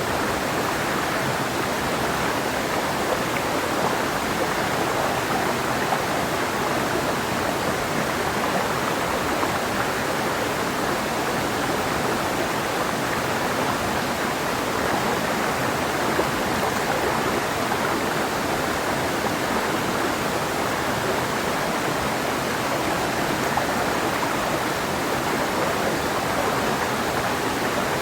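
Clear mountain river flowing over rocks: a steady, even rush of water with no change in level.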